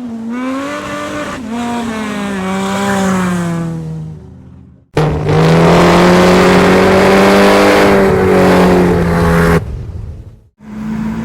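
Ferrari Purosangue's naturally aspirated V12 engine revving: the note climbs at the start, holds, then falls away and fades. About five seconds in, a louder, steady high-rev run begins suddenly and cuts off just as suddenly a few seconds later.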